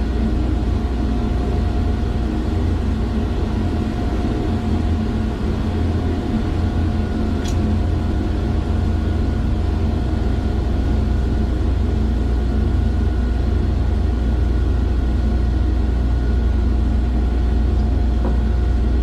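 Steady hum of running industrial machinery, heavy at the low end, with a constant whine on top and one brief click about seven and a half seconds in.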